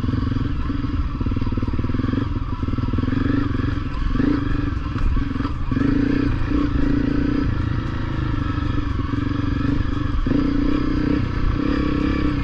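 Honda CRF250L single-cylinder four-stroke trail bike engine running at low trail speed, its note swelling and easing several times as the throttle is opened and closed over rough, slippery ground.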